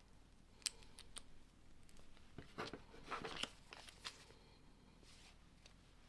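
Plastic Lego bricks handled and pressed together by hand: a few sharp clicks, then a denser run of clicking and rustling in the middle, and one more click after it.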